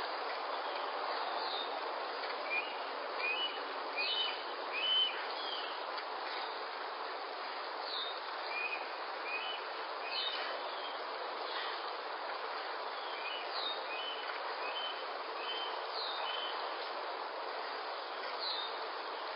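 Birds chirping in short, repeated calls over a steady hiss of outdoor background noise. The chirps come in clusters and are loudest a few seconds in.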